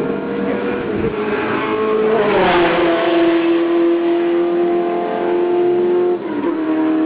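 Historic sports racing cars running at full throttle out of the last corner onto the straight. One passes close about two and a half seconds in, its engine note loudest and falling in pitch. Near the end the engine note drops sharply with a brief dip in level.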